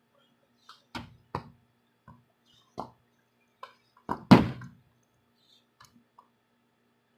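A series of short knocks and thuds at irregular times, the loudest about four seconds in, over a faint steady hum.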